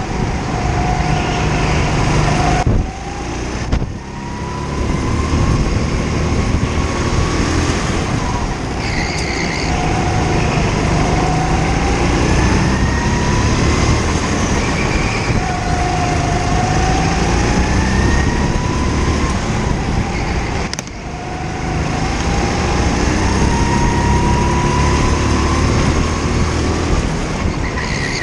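Indoor rental kart driven hard around the track. Its drive whine climbs in pitch along each straight and falls back as it slows for the corners, repeating through the laps, with two brief dips in level when it lifts off.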